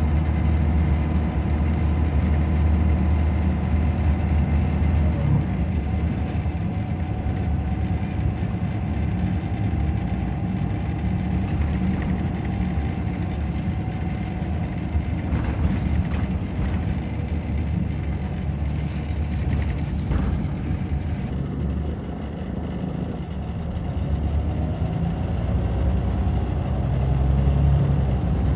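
Scania DC9 five-cylinder diesel of a Scania K94 bus with a ZF automatic gearbox, running steadily under way with a low drone. The engine eases off about two-thirds of the way through and builds again near the end, with a few light rattles along the way.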